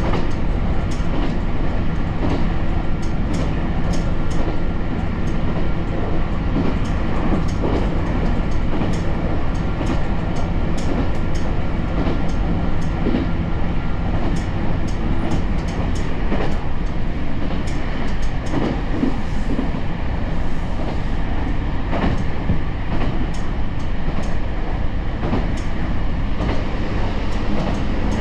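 Kyoto Tango Railway diesel railcar running along the line: a steady rumble of the engine and wheels, with frequent sharp clicks as the wheels pass over rail joints.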